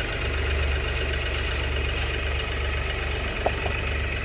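Heavy machine's engine idling steadily, a low even pulsing rumble, with a brief faint squeak about three and a half seconds in.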